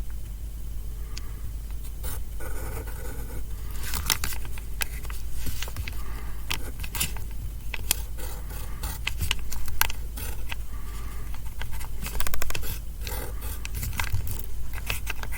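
Handwriting on notebook paper: a pen or pencil scratching in short, quick, irregular strokes as a name is written, the strokes coming thickest from about four seconds in.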